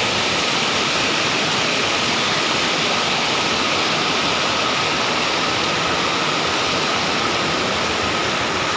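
Bomburu Ella waterfall, falling water making a steady, unbroken rush of noise.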